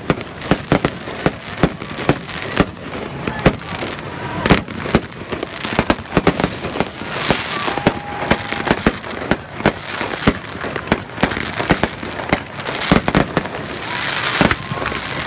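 Aerial fireworks display going off in a rapid barrage: sharp bangs from bursting shells several times a second, with dense crackling between them.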